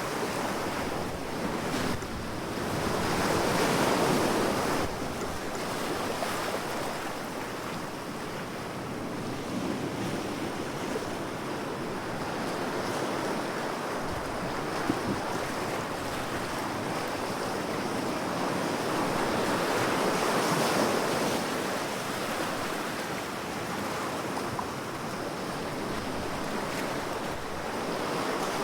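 Ocean waves washing in and drawing back, the surf swelling and ebbing in slow surges about every quarter minute, with some wind noise on the microphone.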